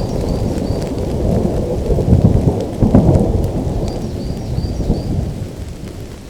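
Thunder rumbling over steady rain, swelling about two to three seconds in and then dying away near the end. A few faint, short high chirps come in two small groups.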